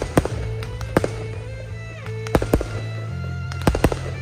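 Aerial fireworks bursting in the air: about eight sharp bangs at uneven intervals, some in quick pairs, over music with sustained low notes.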